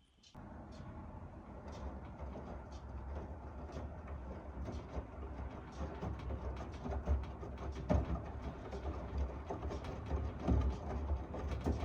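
Miele W1 washing machine running: a steady low hum from the turning drum with irregular knocks and clicks, getting gradually louder.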